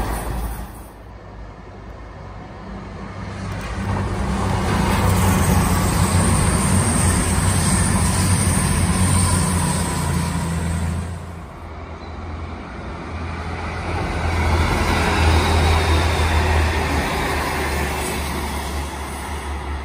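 Diesel passenger train passing close by: underfloor engine drone and wheels rumbling on the rails. It swells twice as the coaches go past and fades near the end as the train draws away.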